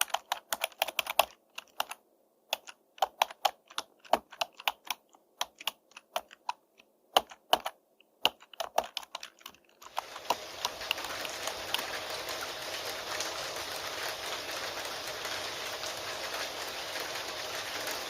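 Computer keyboard typing: key clicks in quick, irregular runs with brief pauses. About halfway through the typing stops and steady rain begins, a continuous even hiss.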